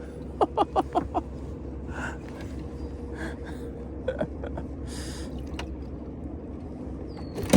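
Steady low outdoor rumble of moving water, with a handful of short sharp sounds about half a second to a second in.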